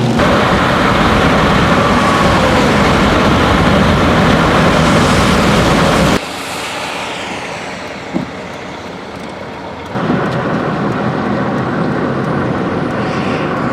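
Heavy rain and road noise from a vehicle driving through a thunderstorm, a steady loud rush. It drops abruptly quieter about six seconds in, with a single short knock a couple of seconds later, and jumps back louder about ten seconds in.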